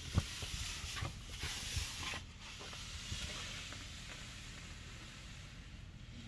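Wind blowing, a rushing hiss that is strongest in the first two seconds, with a few low thumps, then easing to a steadier hiss.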